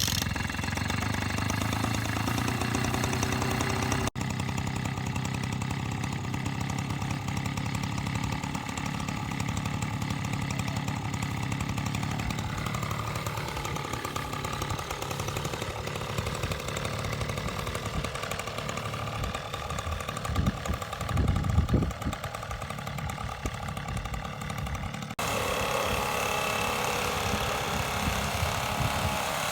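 Small engine of farm machinery running steadily, with a changing load and a rougher, choppier stretch past the middle. The sound changes abruptly about four seconds in and again near the end.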